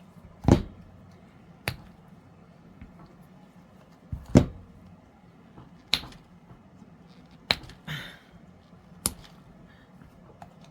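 Handling noise from cured resin trays and their silicone mold: about six separate sharp knocks and clicks, spaced a second or more apart, with quiet in between.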